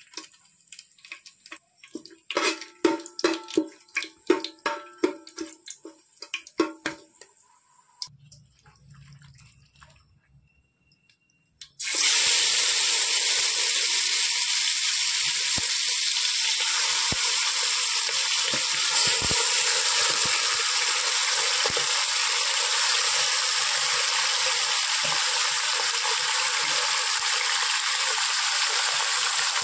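Marinated chicken pieces going into hot oil in an aluminium pot, setting off loud, steady sizzling that starts suddenly partway through and keeps on. Before it, a run of quick knocks with short tones, then a few quiet seconds.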